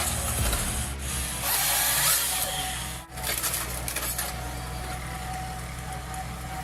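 Firewood processor at work: a steady machine hum under harsh sawing and cutting noise. The noise drops out briefly about three seconds in, and a steady whine runs through the latter half.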